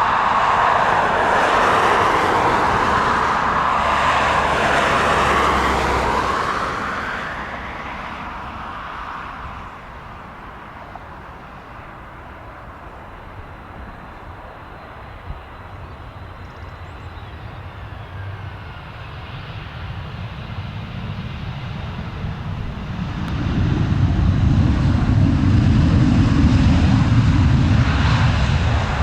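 Jet airliner engines passing close, loud at first with a whine that shifts in pitch, then fading away over several seconds. From about twenty seconds in, a deep engine rumble builds up and is loudest near the end.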